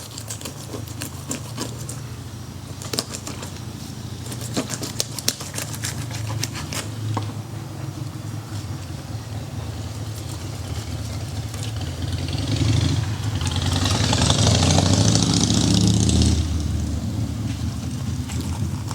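Fillet knife working down the backbone of a mangrove snapper, with many sharp crackling clicks over the first several seconds, over a steady low motor-like hum. A louder hissing rush comes in about two-thirds of the way through and stops about three seconds later.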